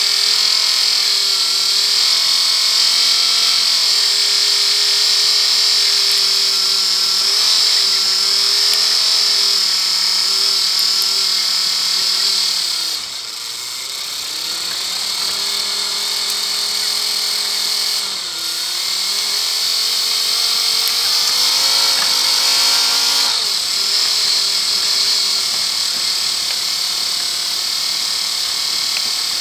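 Land Rover engine running as it drives along, heard from the bonnet, its note dipping about halfway through and again a few seconds later, then climbing. A strong high hiss runs under it throughout.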